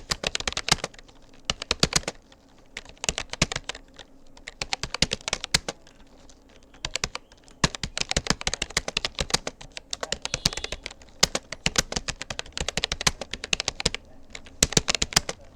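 Keystrokes on a Rapoo computer keyboard, typing at about 36 words per minute. The keys click in quick, irregular runs of a second or two, broken by short pauses.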